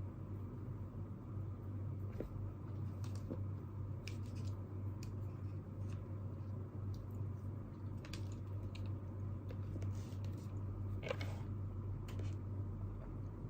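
Steady low hum of room noise with scattered light clicks and taps from someone working at a desk. A brief, louder scrape comes about four-fifths of the way through.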